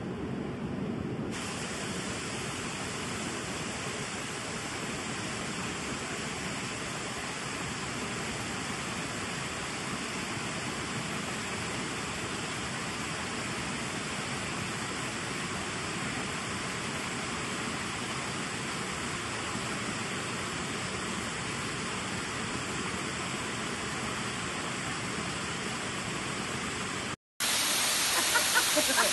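Waterfall rushing in a steady, even roar of water noise. Near the end it cuts out for a moment and comes back louder.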